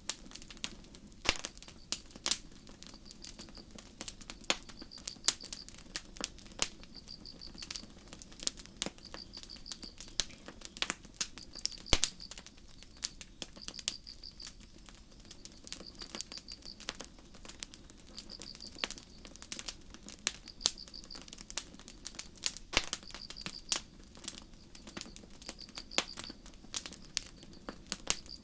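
Campfire crackling with irregular sharp pops, the loudest a few scattered snaps. Behind it, crickets chirp steadily in short high trills about once a second.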